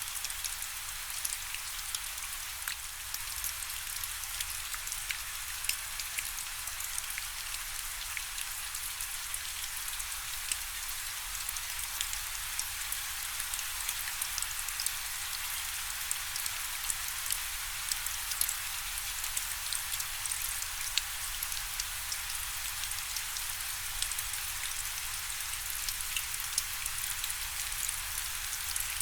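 Steady rainfall, a dense hiss with many small drop ticks spattering on a surface.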